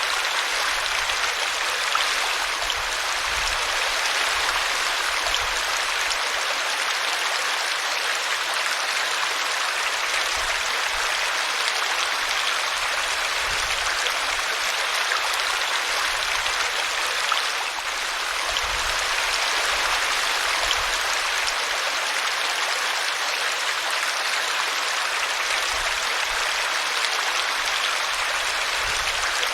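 Small woodland brook splashing steadily as it tumbles over a tree root.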